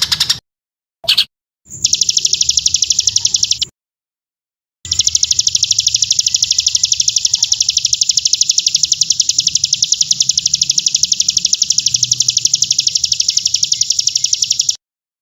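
A songbird gives long, very fast, evenly repeated high notes, a rapid machine-gun rattle of the kind bird keepers call 'tembakan'. It is chopped off abruptly by edits, with a gap about four seconds in and another near the end.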